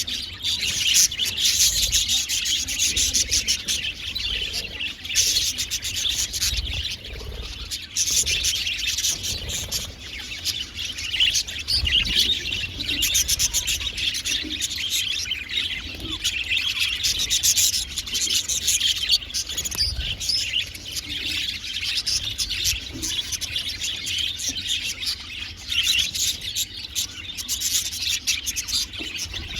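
A flock of budgerigars chattering and chirping without a pause, many birds calling over one another.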